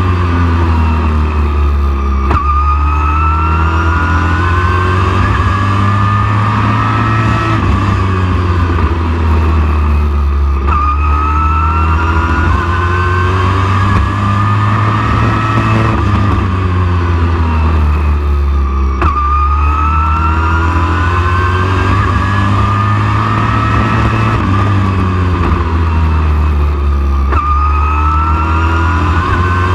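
Race truck engine lapping a short oval: its pitch climbs along each straight, then drops sharply as it lifts for the turns, about every eight seconds, over a steady low drone.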